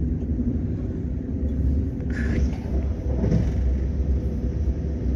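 KTX high-speed train running, a steady low rumble with a brief higher-pitched sound about two seconds in.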